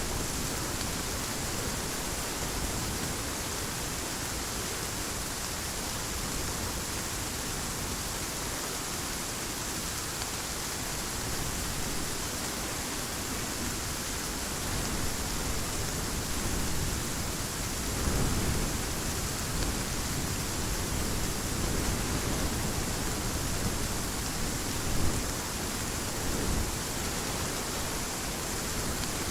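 Heavy rain falling in a steady, even hiss, with a few brief low rumbles of thunder about two-thirds in and near the end.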